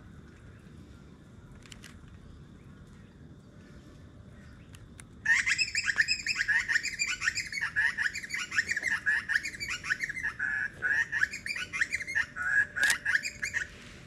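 Birds chirping rapidly and continuously, a dense run of quick overlapping chirps. It starts abruptly about five seconds in and cuts off just before the end. Before it there is only faint outdoor background.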